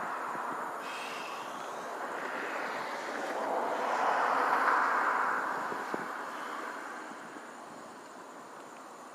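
A passing vehicle: a rushing noise that swells to a peak about halfway through, then fades away.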